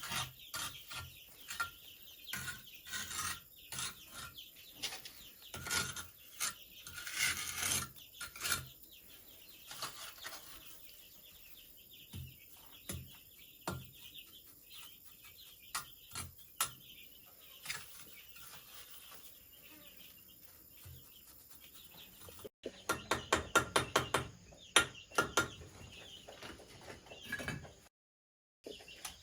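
Irregular knocks and taps. After a cut about three quarters of the way through comes a quick run of louder, sharper strikes.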